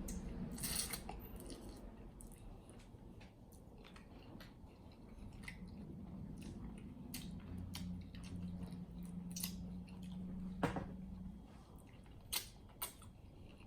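Close-up chewing of chicken wings coated in thick garlic sauce, with many small mouth clicks and a few sharper clicks near the end. A low hum runs for a few seconds past the middle.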